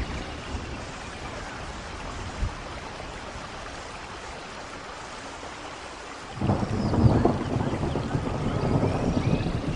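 Steady rainfall, with one small knock about two seconds in; about six seconds in a low rumble of thunder breaks in suddenly, much louder than the rain, and keeps rolling.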